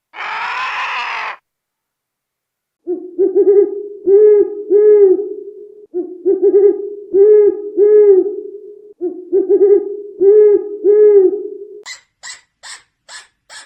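A short harsh cry at the start, then an animal's hooting call repeated three times, each phrase a run of several low hoots about three seconds long. A run of quick, even clicks follows near the end.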